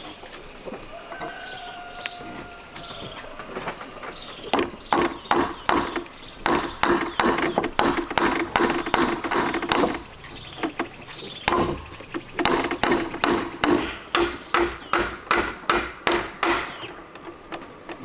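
A tool striking wood repeatedly, about two blows a second in two long runs with a short pause between them, each blow carrying a brief ringing note.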